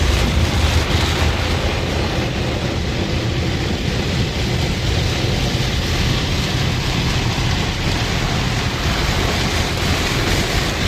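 Automatic car wash running: a steady rush of water spraying onto a car, over a low rumble.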